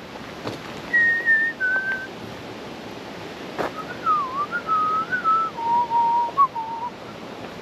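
A person whistling a tune: clear held notes stepping down from high to lower pitch, with a wavering run in the middle. A single sharp click about halfway through.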